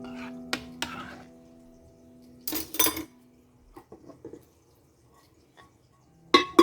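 Kitchenware clinking and clattering: a few sharp clicks, a short rattle about two and a half seconds in, light ticks, then a louder double clatter near the end. Soft background music with held notes plays under the first part.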